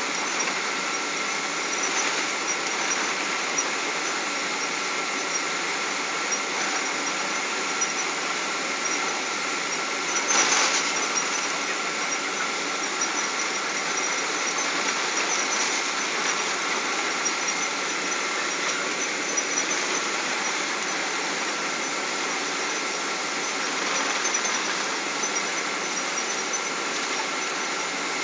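Steady jet-airliner cabin noise inside a Boeing 777, with a thin high whine that stops about two-thirds of the way through. There is a brief louder rush about ten seconds in.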